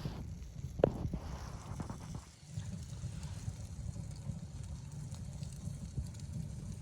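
Wind buffeting the microphone as a low rumble, easing briefly about two seconds in. A sharp knock comes a little under a second in, with a few fainter clicks around it.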